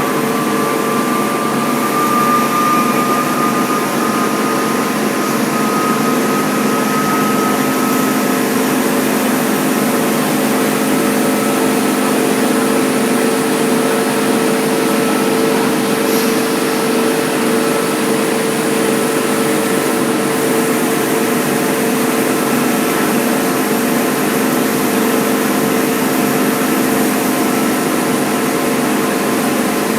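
Wide belt sander running steadily while sanding wood veneer: a constant loud hiss and hum, with a faint whine that rises slightly in pitch over the first several seconds.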